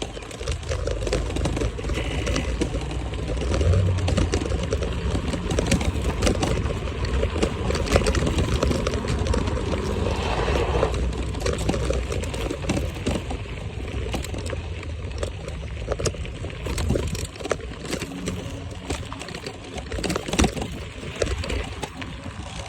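Wind rumbling on the microphone of a moving electric scooter, with frequent knocks and rattles throughout.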